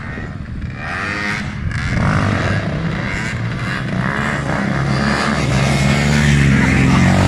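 Motor vehicle engines running and revving, growing louder.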